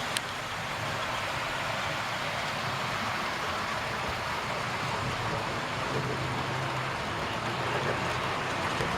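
OO gauge model trains running round a layout: a steady rattling rumble of wheels on the track with a low motor hum, and a single sharp click just after the start.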